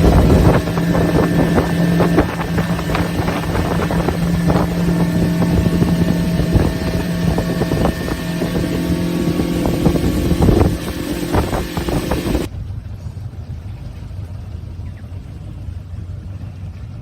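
A motorboat engine runs steadily with wind buffeting the microphone. About twelve seconds in, the engine's steady tone drops away and a quieter rushing noise is left.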